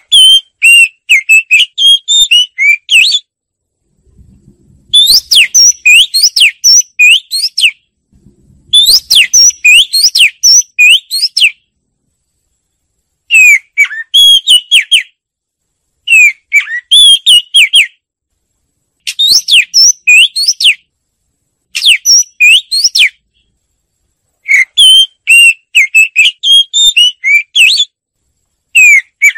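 Oriental magpie-robin singing: loud, varied whistled song phrases of two to three seconds, repeated about nine times with short pauses between them.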